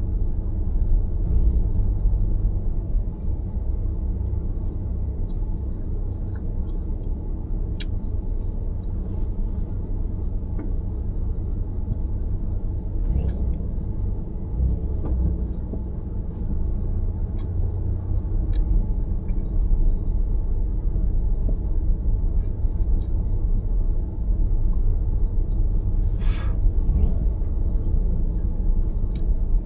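A car being driven, with a steady low rumble of road and engine noise. A few faint ticks come through, and there is a brief hiss near the end.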